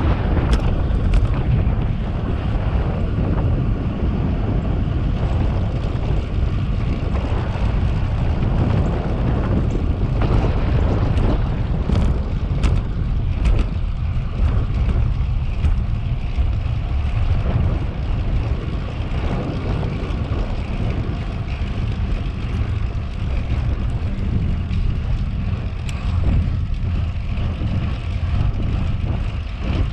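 Wind rushing steadily over the microphone of a camera riding on a moving bicycle, with a few brief clicks.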